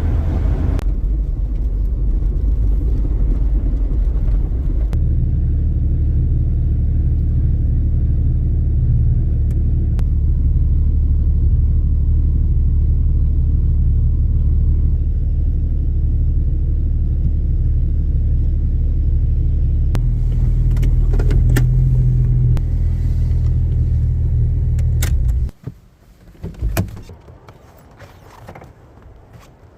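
Steady low rumble of a vehicle being driven, heard from inside the cab, changing a few times along the way. About 25 seconds in it cuts off suddenly as the vehicle is switched off, followed by a few clicks and rattles.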